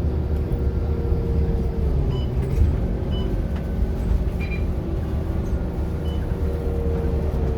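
Scania K230UB city bus's diesel engine running under way, a steady low rumble with a faint whine that slowly drops in pitch in the second half. A few short high squeaks or rattles sound above it.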